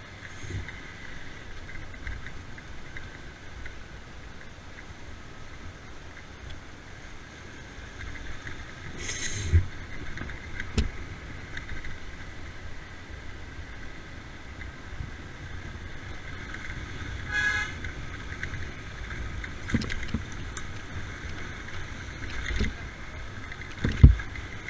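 Steady road noise of a two-wheeler ride, the engine running under wind and tyre noise, with a brief horn toot partway through and a heavy thump near the end.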